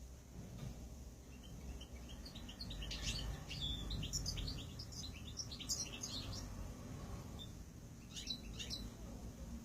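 Small ornamental cage birds chirping: a quick run of short high chirps from about a second in until past the middle, then a brief cluster of chirps near the end, over a low steady rumble.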